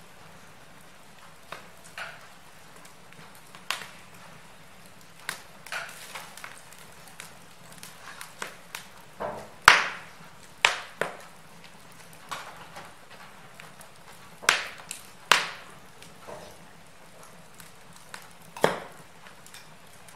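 Wood fire crackling: irregular sharp pops and snaps over a faint steady hiss, with the loudest pop about ten seconds in.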